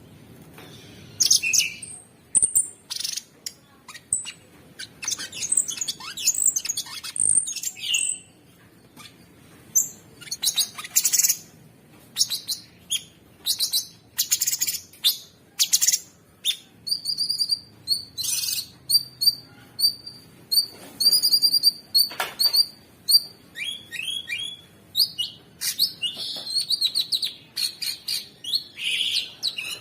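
Cucak sungkok songbird singing a fast, harsh, unbroken string of sharp high chirps and trills, with a run of repeated high piping notes past the middle.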